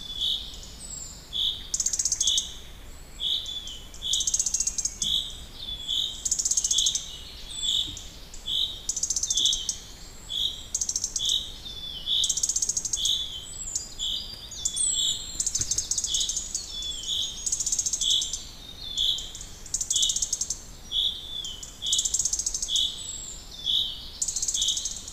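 Birds calling steadily: a short, high note repeated about one and a half times a second, with a higher buzzy trill about every two seconds.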